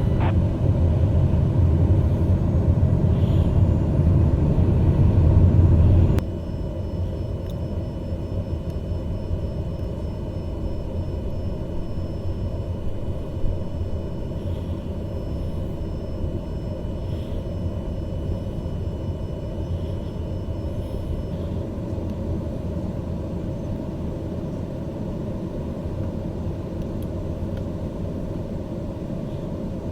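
Steady low rumble, louder for the first six seconds and then dropping suddenly to a quieter, even rumble.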